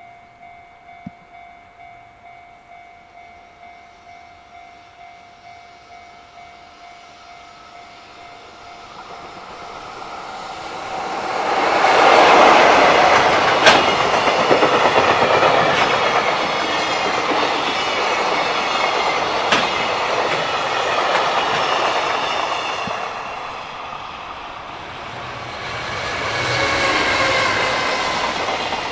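Japanese level-crossing bell ringing in a steady repeating chime. From about ten seconds in, a JR Freight container train hauled by an EF66 electric locomotive rushes past, its wagons clattering over the rail joints with a few sharp clanks. Near the end a second container train, behind an EF210 locomotive, passes from the other direction.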